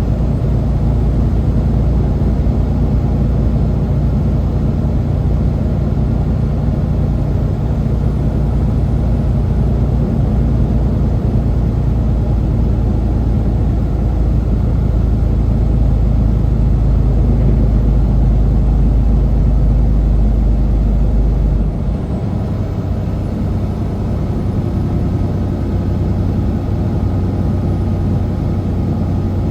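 Semi truck's diesel engine running steadily under load on a climb, a deep continuous drone; about three-quarters of the way through the deepest part of it falls away and the level drops slightly.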